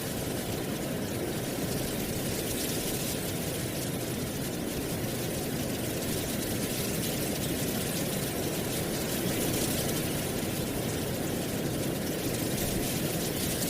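Wind blowing through dry autumn leaves: a steady rustling rush with a low rumble underneath, swelling slightly about nine seconds in.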